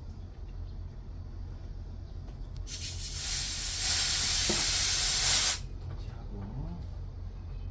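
Refrigerant gas hissing out of the charging line in one steady burst of about three seconds that rises in and then cuts off suddenly, over a low steady hum.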